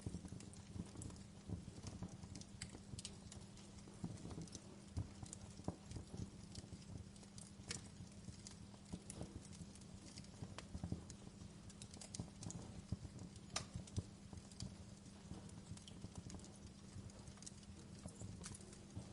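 Wood fire crackling in a fireplace: irregular sharp pops and snaps, some louder than others, over a low steady rumble of the burning.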